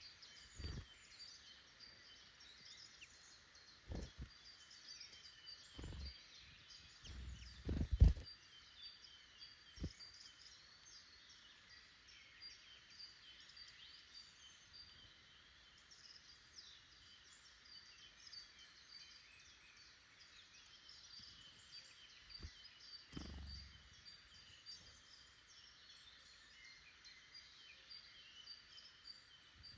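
Woodland birds chirping and singing continuously in a busy chorus of high, quick notes. A few short, dull low thumps break in, the loudest about eight seconds in and another a little after twenty seconds.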